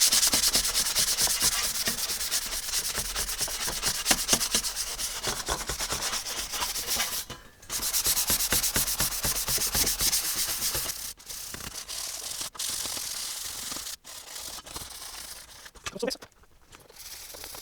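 Hand sanding block rubbed back and forth on a corroded metal RF shield to clean off the rust, in quick, even strokes. There is a short break about seven seconds in, and the strokes become lighter and broken in the last few seconds.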